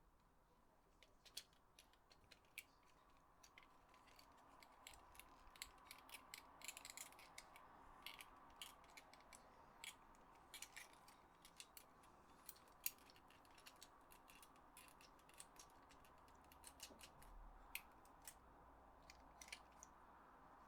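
Faint, irregular small clicks and taps of a PS4 controller's plastic shell and internal parts being handled and fitted, over a low hiss.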